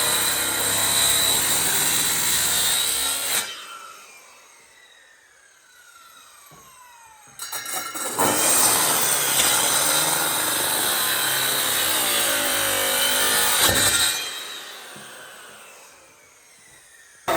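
A power tool working wood, run in two spells; each time it is let go its motor winds down over a few seconds with a falling whine.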